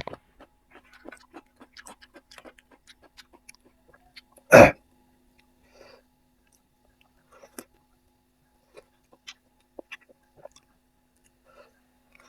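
A person eating close to the microphone: scattered small wet mouth clicks and chewing noises, with one loud short knock about four and a half seconds in. A faint steady hum sits underneath.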